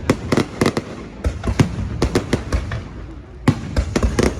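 New Year fireworks going off in a rapid, irregular series of sharp bangs, several a second, with a brief lull about three seconds in before the bangs resume.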